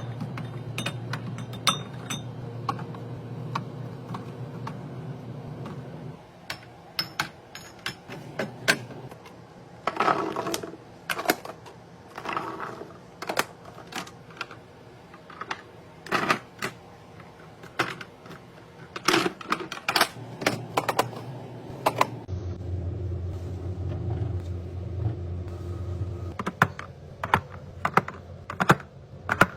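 Irregular clicks, taps and light knocks of kitchen items and plastic containers being handled and set down while restocking, with a steady low hum in the first few seconds and again near the end.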